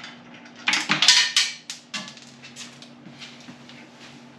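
Metal clinking and scraping from hand work with bolts and tools, loudest about a second in, followed by a few lighter clicks.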